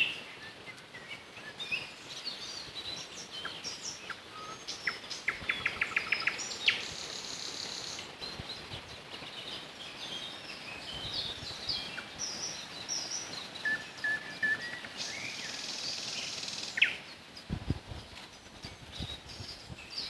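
Nightingales singing, with other small birds chirping: rapid rattling runs of repeated notes between clear whistled phrases. A few low bumps near the end.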